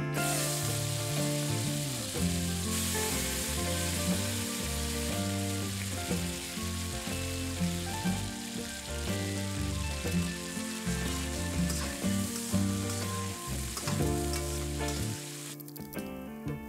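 Chicken thigh pieces frying in hot oil in a stainless steel wok: a dense, steady sizzle that starts suddenly as the chicken goes into the oil and cuts off shortly before the end. Background music plays underneath.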